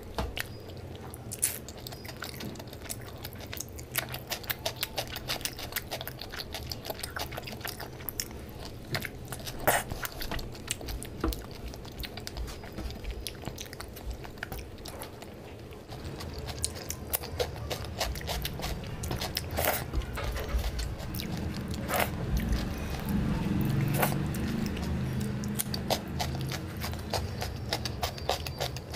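Close-miked eating: chewing a mouthful of rice and curry eaten by hand, with frequent wet mouth clicks and smacks. It grows louder about halfway through.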